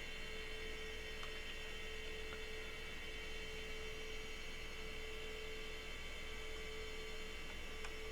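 Steady electrical hum with a constant mid-pitched tone and a higher whine, with a few faint ticks.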